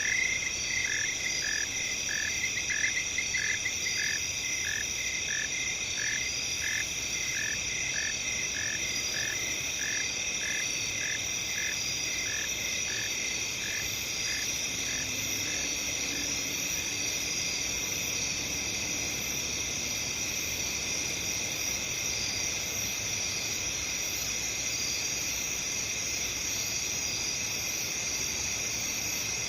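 Night chorus of crickets: a steady, dense high trilling throughout. Over it, a lower chirping call repeats about twice a second and fades out around the middle.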